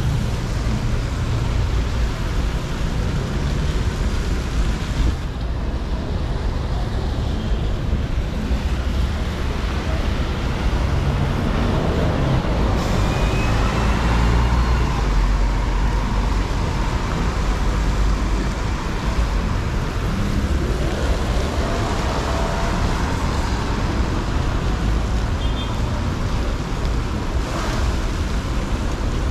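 Steady traffic on a busy city avenue on a wet road: car and bus engines and tyres on wet pavement, with a continuous low rumble.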